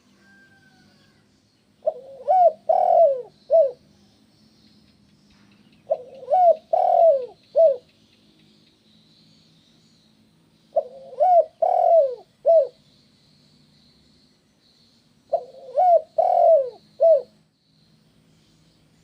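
Spotted dove (tekukur) cooing: four phrases of about four notes each, a few seconds apart, with the middle notes the loudest. A faint high chirping runs underneath.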